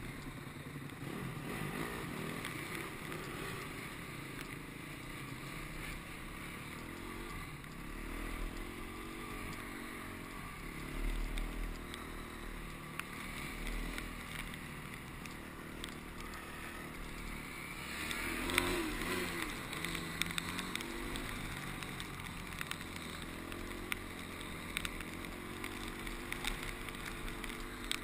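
Honda CRF250X single-cylinder four-stroke trail bike engine under way, its revs rising and falling as it rides, with wind rush on the helmet-mounted microphone. It pulls hardest a little over halfway through.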